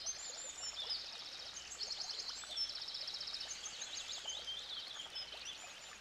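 Several songbirds chirping and singing, with repeated high whistled notes and rapid trills, over the faint steady rush of a stream.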